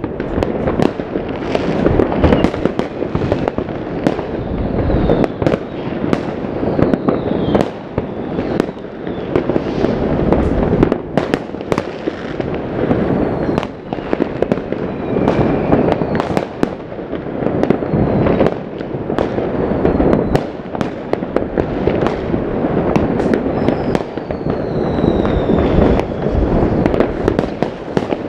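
Fireworks going off all over a city at once: a steady rumble and crackle of rockets and firecrackers, with many separate bangs near and far. Several rocket whistles fall in pitch, one clear whistle near the end.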